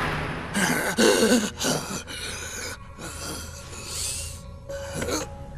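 A man gasping and panting heavily, a string of ragged breaths, the loudest about a second in.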